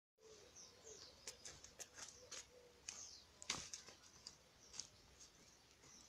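Songbirds singing faintly: short high chirps and whistling phrases, mixed with several sharp clicks, the loudest a brief knock about three and a half seconds in.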